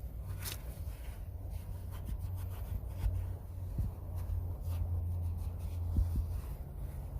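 Light rubbing and a few soft knocks of hands handling car parts, over a steady low hum.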